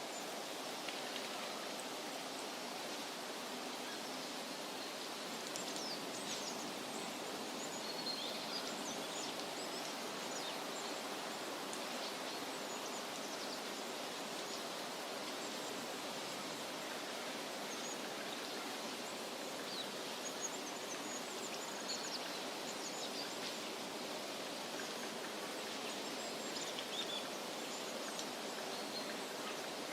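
Forest ambience: a steady rushing background with short, high bird chirps scattered through it, in small clusters about a third of the way in, about two-thirds of the way in and near the end.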